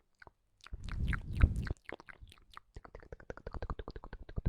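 Close-miked ASMR mouth sounds: a wet, breathy mouth noise about a second in, then a rapid, even run of mouth clicks, about nine a second.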